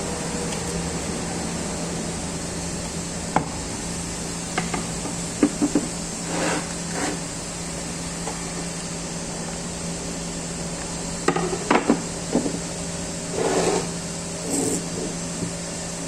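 Irregular knocks and clanks of hand tools against metal parts, a few at a time with short scraping sounds between, over a steady machine hum.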